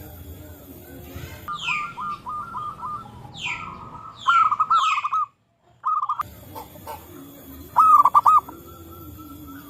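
Zebra doves cooing: several phrases of rapid, stuttering coos, the loudest at about four seconds in and again near eight seconds, with higher, sharp down-slurred calls from another bird in between. The sound cuts out completely for about half a second just after the middle.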